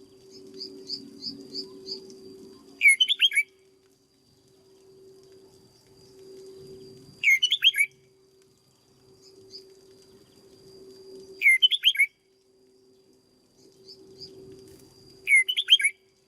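Red-whiskered bulbul singing a short, loud, quick song phrase four times, about every four seconds, with softer high chirps between phrases. A faint steady hum runs underneath.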